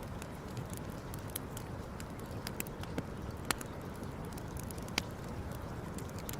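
Campfire crackling, with sharp irregular pops several times a second over a steady low rush.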